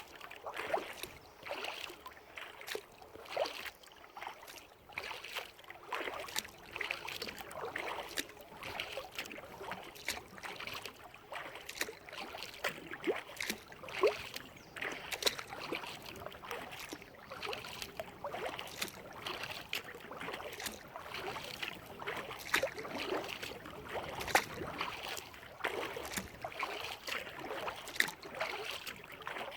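Kayak paddling: the paddle blades dipping into the water over and over, with splashes and drips running off the blades.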